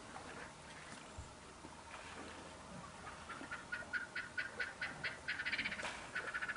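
A bird calling: a run of short, sharp repeated notes, about five a second, that begins about halfway through, speeds up and runs together near the end.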